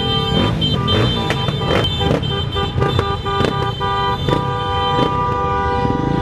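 Several vehicle horns held down together in continuous honking, over engines running underneath.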